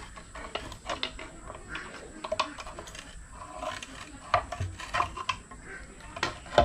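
Irregular metallic clinks and knocks of hand tools and engine parts being handled while an Isuzu 4JJ1 diesel engine is taken apart.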